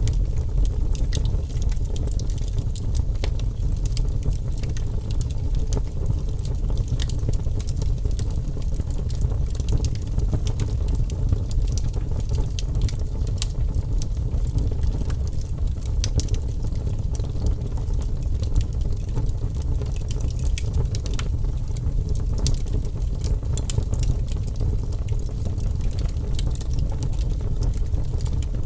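Wood fire burning in a fireplace: a steady low rumble of flame with frequent sharp crackles and pops.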